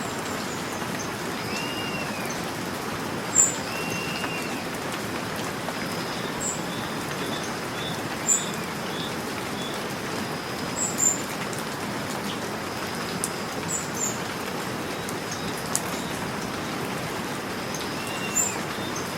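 Steady rain falling, with birds chirping over it: short, sharp high chirps every few seconds and softer arched calls that repeat.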